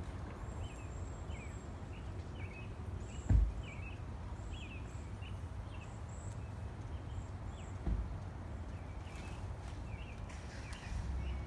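Garden ambience: small birds chirping in short repeated high notes over a steady low rumble, with two dull thumps, the first of them louder.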